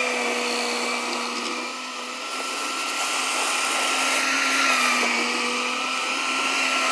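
Mini skid steer running steadily, a constant engine hum with a high whine over it.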